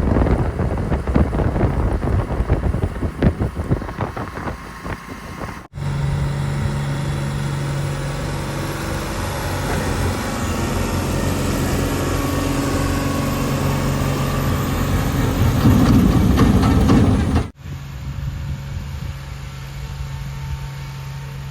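Heavy diesel engine of a working vehicle running, heard in three abruptly cut pieces. The first is a gusty, uneven rumble. The second is a steady engine note that grows louder to a peak about three quarters through. The last is a steadier, quieter running note.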